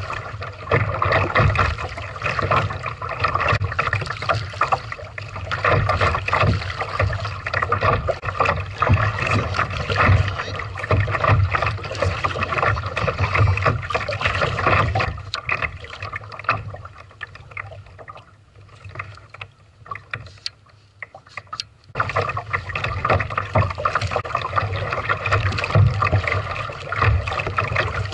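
Kayak being paddled: paddle strokes splashing and water washing against the hull, with knocks and bumps. There is a quieter stretch about two-thirds of the way through, then the sound comes back suddenly at full level.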